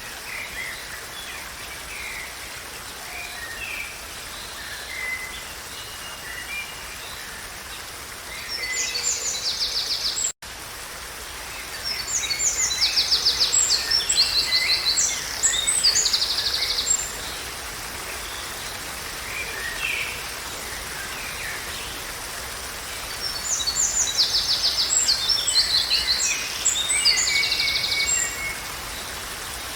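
Songbirds singing over a steady outdoor background hiss: scattered chirps throughout, with three louder bouts of rapid, high trilled song. The sound cuts out for an instant about a third of the way in.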